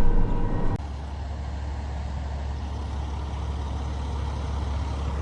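Truck engine idling, a steady low hum. There is an abrupt cut about a second in, after which the low drone continues evenly, growing slightly louder toward the end.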